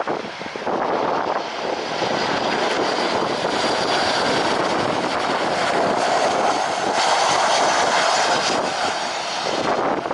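Jet airliner engines running, a loud steady rushing noise that grows slightly louder about seven seconds in.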